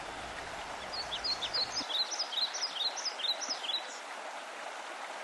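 A songbird singing a rapid run of short high chirps for about three seconds, starting about a second in, over a steady outdoor background hiss.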